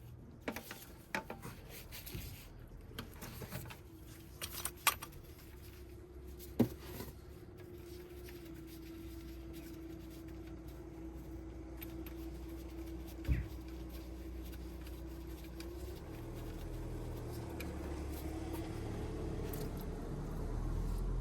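Metallic clicks of a ratchet and wrench working the 21 mm sump drain bolt loose. Then a low rushing noise grows steadily louder toward the end as engine oil begins to run out into the drain pan.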